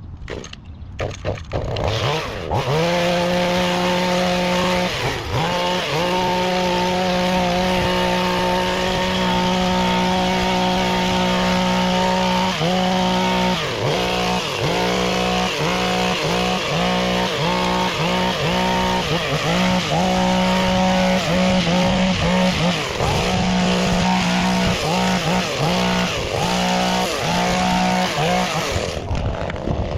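Small petrol engine of a handheld garden power tool running at high revs. It comes in about two seconds in, and its throttle is repeatedly let off and squeezed again before it drops away near the end.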